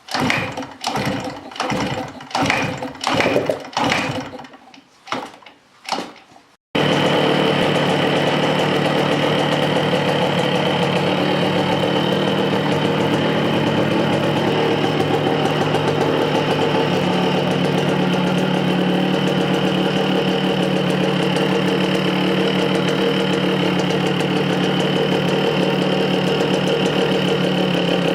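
Engine of a Salute motorcycle that has only just been got to start. For the first several seconds it sputters in short, uneven bursts. About seven seconds in it comes in steadily and keeps idling.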